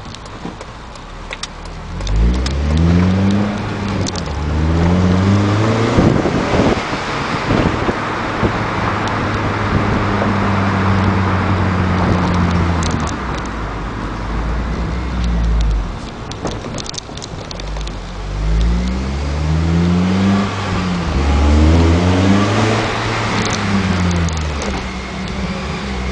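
Acura CSX Type-S's K20 2.0-litre four-cylinder engine accelerating hard twice. Each time the revs climb in a couple of rising pulls, broken by quick drops at the upshifts, with a steadier engine tone between the two runs.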